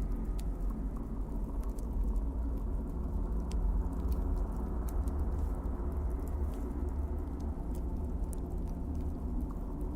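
Wood fire burning in a fireplace: a steady low rumble of the flames with many scattered sharp crackles and pops from the logs.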